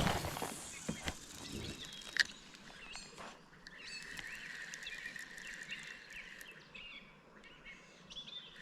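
Quiet outdoor ambience with small birds chirping. A steady high note holds for about three seconds in the middle, and there is a single sharp click a couple of seconds in.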